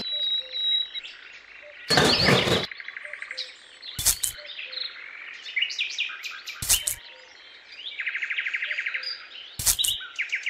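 Small birds chirping and twittering, with a fast trill about eight seconds in. A short loud noisy sound comes about two seconds in, and a few sharp taps are scattered through.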